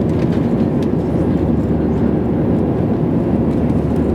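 Airliner cabin noise: a steady low rumble of jet engines and airflow.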